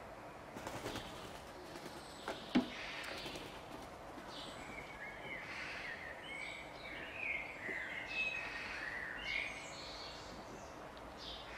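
Wild birds chirping and calling over steady background noise, with a run of short chirps from about five to ten seconds in. A single sharp knock about two and a half seconds in is the loudest sound.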